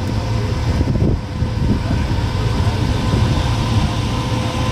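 Car engine idling: a steady low rumble with a faint steady whine over it.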